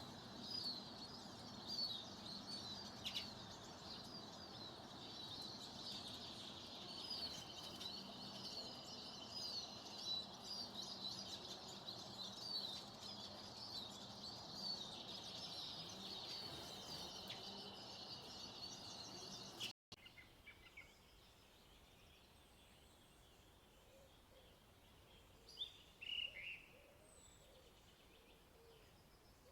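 Many small birds chirping busily in a dense, overlapping chatter of quick high calls. After about twenty seconds the sound breaks off, and what follows is much quieter, with only a few single calls.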